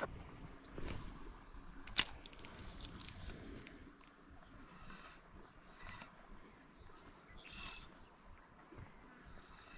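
Insects calling in a steady, high-pitched drone, with one sharp click about two seconds in.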